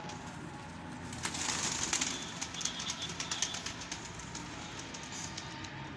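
Domestic pigeons flapping their wings, a quick clatter of wingbeats that starts about a second in, is loudest soon after, then tails off into scattered flaps.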